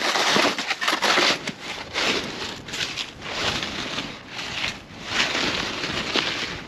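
Boots crunching through snow at a walking pace, one crunchy step after another.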